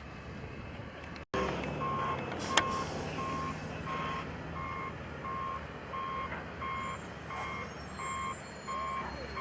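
A heavy vehicle's reversing alarm beeping steadily about twice a second over engine noise, starting just after an abrupt cut about a second in; a single sharp click sounds soon after.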